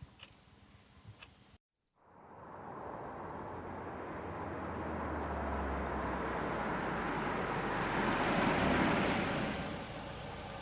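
Night ambience: crickets chirping in a steady, fast pulse while a car approaches. The car grows louder to a peak about nine seconds in, where a brief high squeal sounds, then eases off.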